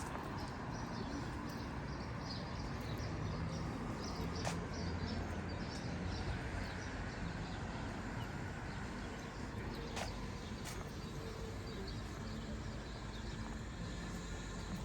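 Street ambience: small birds chirping over a low, steady hum of distant traffic, with the walker's footsteps and a few sharp clicks.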